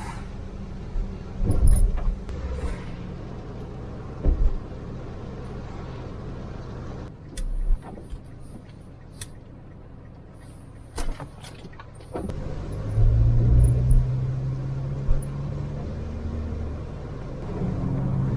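A car running with a steady low hum, broken by several short knocks. About twelve seconds in, a louder, deeper hum starts.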